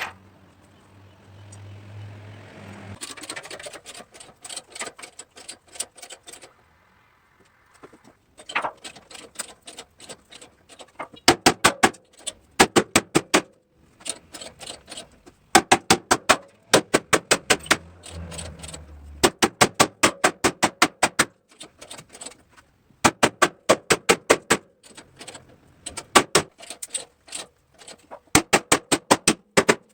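Hammer tapping on sheet-metal car body panels in quick runs of sharp strikes, several a second, with short pauses between runs. A low machine hum runs under the first few seconds.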